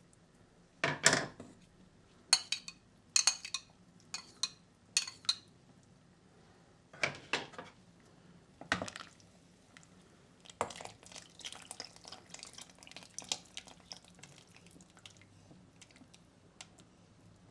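Dishes and utensils clinking and clattering as they are handled. A heavier clatter about a second in is followed by a run of ringing clinks, two more knocks, and then a long string of lighter clicks and taps.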